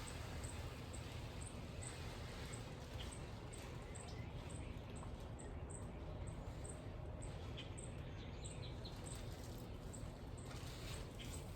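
A small bird giving short, high, thin chirps about twice a second, over a steady low outdoor rumble.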